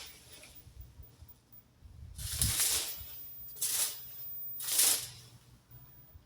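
Yard debris of leaves and twigs being raked: three short rustling, scraping strokes, the first a little over two seconds in and the other two close together about a second apart.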